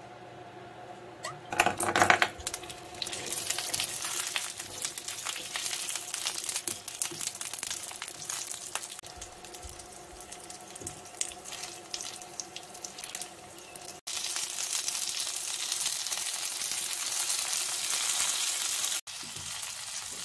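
Dumplings pan-frying in oil in a nonstick frying pan, browning crisp: a steady crackling sizzle that cuts off sharply twice, after a loud, brief burst of noise about two seconds in.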